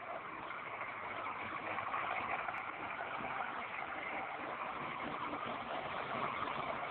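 Old Hindustan H50 tractor engine running steadily, growing a little louder over the first couple of seconds and then holding.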